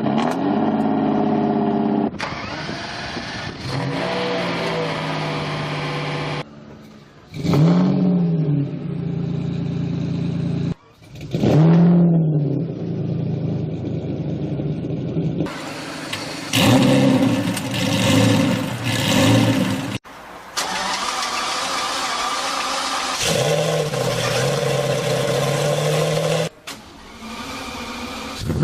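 Lamborghini Diablo V12 engine idling and being revved, with short blips that rise and fall in pitch and some stretches held at higher revs, in several separate edited clips with sudden cuts between them.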